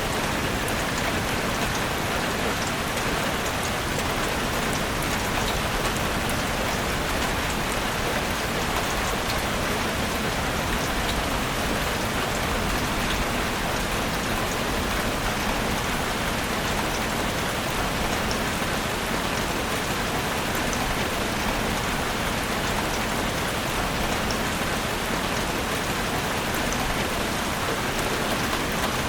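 Steady rain falling in a forest, an even hiss with many small drop hits pattering on leaves and surfaces.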